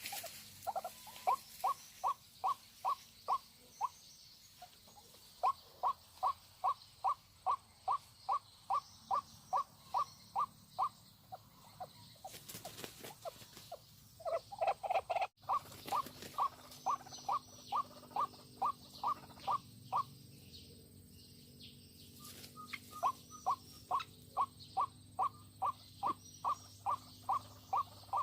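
A white-breasted waterhen calling: a long run of short, repeated croaking notes, about two to three a second, broken by a few short pauses.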